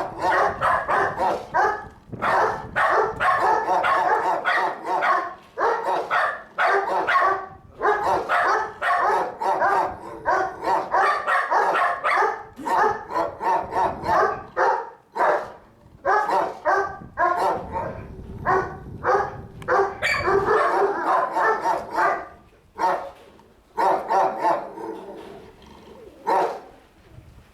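Dogs barking over and over, several short barks a second with brief pauses, thinning out near the end.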